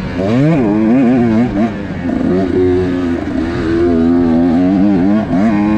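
Husqvarna TX 125 two-stroke enduro motorcycle ridden hard on a dirt track, its engine revving up and dropping back several times as the rider works the throttle.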